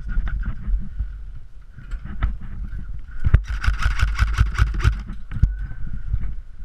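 Rapid burst of airsoft rifle fire, about ten shots a second for roughly a second and a half, starting about three seconds in. Around it are the thumps of footsteps and gear knocking against the camera as the player moves.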